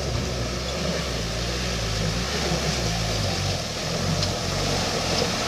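Dump truck engine running steadily under load as the truck drives off-road.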